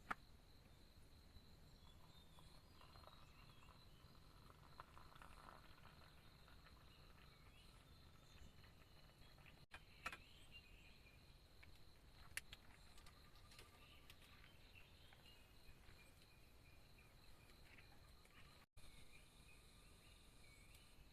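Near silence: faint forest ambience with insects buzzing and chirping, broken by a few short, sharp clicks.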